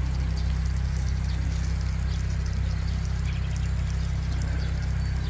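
Steady rain falling, with faint scattered drop ticks over a low, constant rumble of wind.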